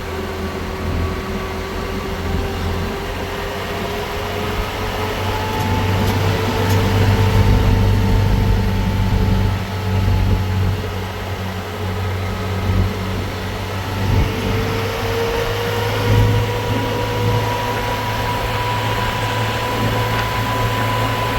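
A vehicle engine running steadily under a wash of noise, its pitch slowly drifting up and down.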